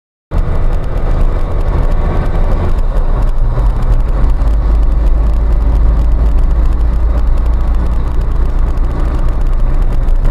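Steady, loud vehicle driving noise, engine and road rumble heavy in the low end, cutting in abruptly just after the start.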